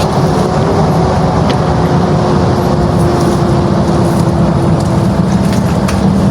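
An engine running steadily, with a faint held tone above the low rumble.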